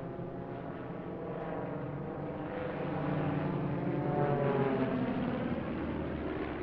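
Propeller engines of a formation of Van's RV-8 light aerobatic aircraft droning overhead. They grow louder to a peak about four seconds in, with their pitch bending as they pass, then fade slightly.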